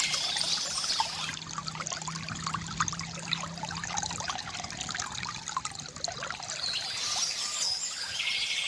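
Water trickling and pouring from a bamboo fountain, with many small splashes and droplets. Birds chirp at the start and again near the end.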